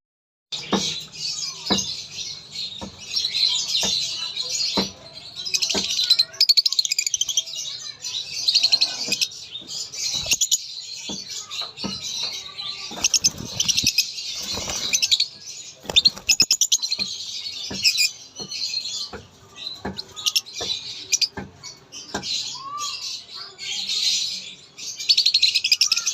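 Peach-faced lovebirds chattering: a dense, continuous run of rapid high chirps and squeaks, with scattered sharp clicks throughout.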